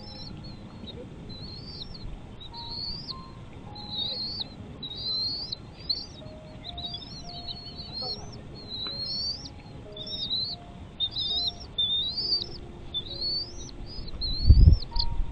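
Bird chirping: a steady series of short, high chirps, about two a second, each sweeping up and then dropping. A few low thumps come near the end.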